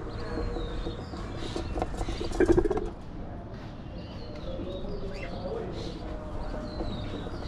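Pet budgies chattering and chirping, a busy run of short high warbles and tweets. A louder cluster of clicks comes about two and a half seconds in.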